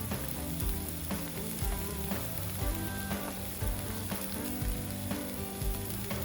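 Meat sizzling steadily on a hot iron steak plate while grilling yakiniku.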